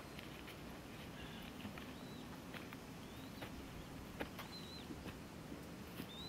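Faint outdoor ambience: a bird repeats a short, high, arching whistled note about four times. A few light clicks and rustles of belongings being handled come in between.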